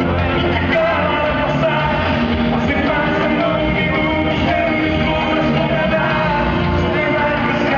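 Live concert music: a rock band playing with a singing voice over it, loud and steady.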